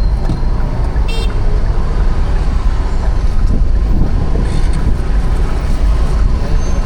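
City street traffic heard from a bicycle: a steady, loud low rumble of passing motor vehicles, with a short high-pitched horn toot about a second in.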